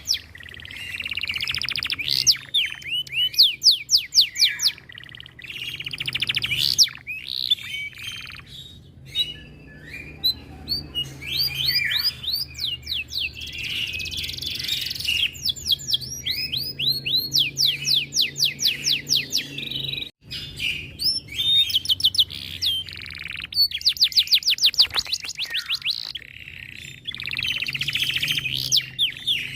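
Domestic canary singing a long song of fast rolling trills: runs of rapid, evenly repeated notes broken by short pauses, over a faint low hum. The sound drops out briefly about twenty seconds in.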